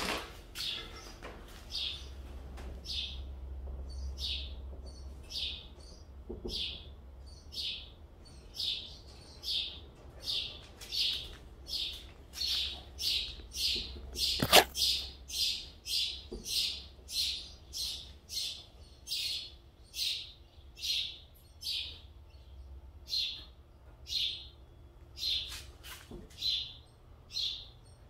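A bird chirping over and over in short high notes, about one to two chirps a second, quickest in the middle. A sharp click sounds about halfway.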